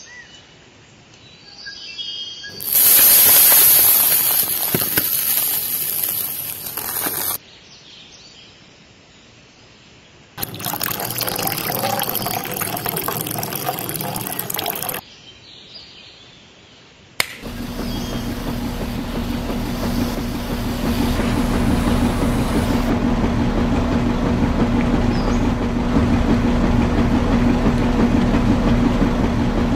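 A loud rushing noise for about five seconds, then water poured from a metal cup into a tin-can mixer drum. About halfway through, a small battery-powered motor starts and runs steadily to the end with an even low hum, turning the toy concrete mixer's drum.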